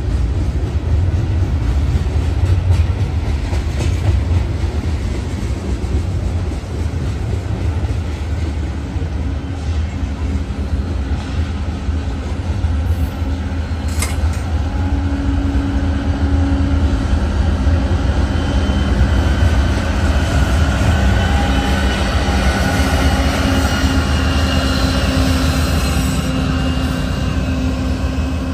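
Freight train of covered hopper cars rolling over a steel girder bridge: a heavy, steady low rumble of wheels and cars. From about halfway, thin high squealing tones from the wheels join in.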